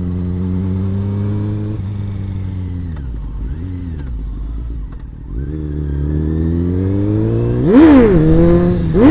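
Honda CBR600 inline-four sport-bike engine slowing down, then building revs again in second gear, with a sharp rev spike and drop about two seconds before the end and another right at the end as the throttle is snapped open to lift the front wheel slightly off the ground.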